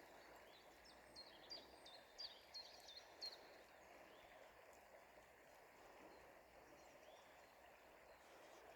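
A small songbird sings one short phrase of about seven quick, high chirps about a second in, over faint, steady outdoor background noise.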